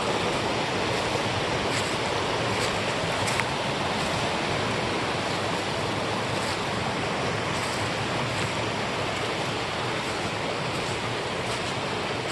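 Mountain creek rushing over rocks: a steady, unbroken water noise.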